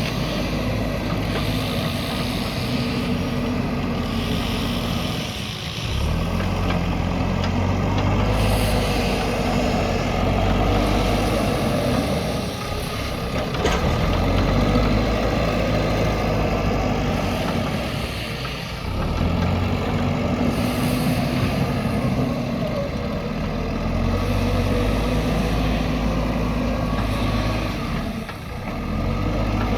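JCB backhoe loader's diesel engine running under working load. Its note drops briefly about every six seconds and then picks up again, following the dig-and-load cycle.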